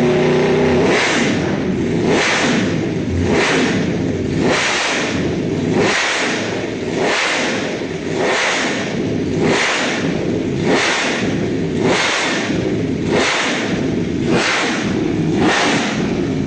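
Superbike engine revved again and again in even blips, about one every 1.2 seconds, the pitch rising and falling with each.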